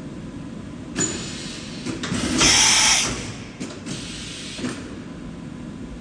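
Samsung MCV-50 CNC vertical machining center working through a mechanical cycle: a clunk about a second in, a loud hiss of air lasting under a second, then a few short clicks, over the machine's steady hum.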